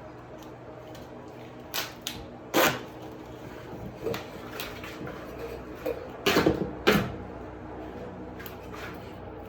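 Tape being pulled off the roll in short loud rips, four or so, as it is wrapped around a duct joint. A steady low hum underneath.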